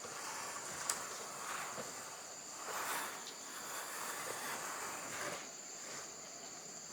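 Insects, crickets or cicadas, trilling steadily at a high pitch, with soft rustling swells underneath and one sharp click about a second in.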